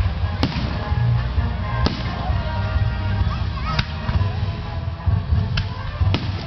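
Aerial fireworks exploding: five sharp bangs spread over several seconds, over a continuous low rumble of the display.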